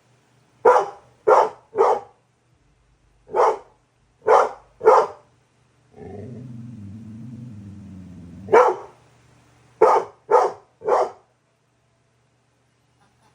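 Pit bull puppy barking on guard after a doorbell: about ten sharp barks in groups of two or three. About six seconds in there is a low growl lasting two to three seconds, which ends in another bark.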